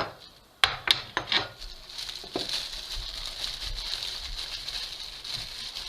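Food-preparation handling: a few quick clicks and knocks in the first second and a half, then a steady soft hiss.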